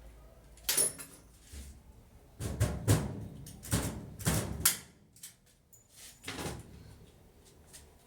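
Irregular knocks and clunks of hard parts being handled and set in place: one sharp knock a little under a second in, a cluster of several loud knocks from about two and a half seconds to nearly five, and another knock around six and a half seconds.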